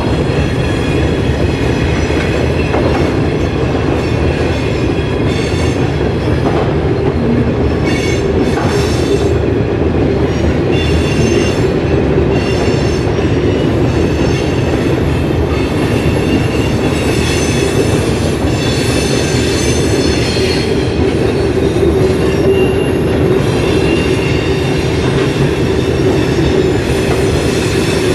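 Freight train cars rolling on the rails with a steady rumble, and wheel squeal at several high pitches that comes and goes.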